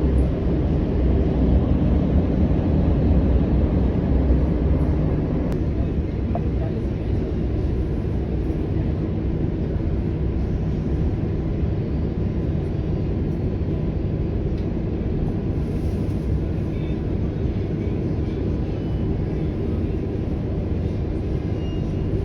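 Train running, a steady low rumble that is a little louder for the first few seconds and then holds even.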